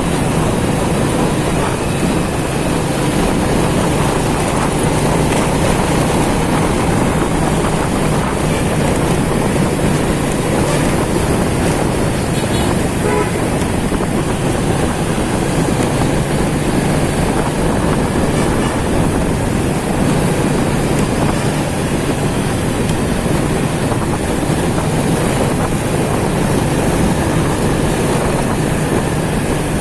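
Motorcycle riding through city traffic: its engine running steadily under continuous road and traffic noise.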